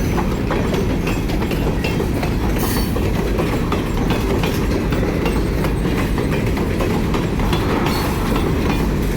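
Freight cars rolling past, a steady rumble with wheels clicking and clacking over the rail joints.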